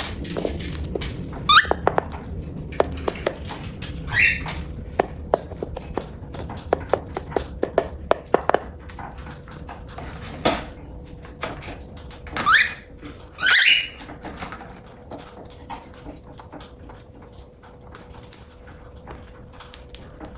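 Cockatiel giving four short chirps, two of them a second apart near the middle, among a scatter of small sharp clicks.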